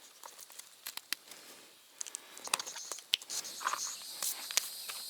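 Insects chirring in a steady high chorus that grows louder about halfway through, over scattered clicks and rustling.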